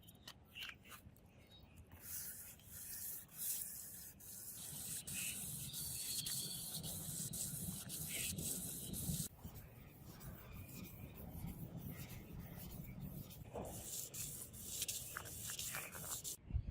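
Abrasive hand rubbing on a steel blade, in repeated scraping strokes, as in sanding or polishing. It is strongest in the first half and fainter after about nine seconds.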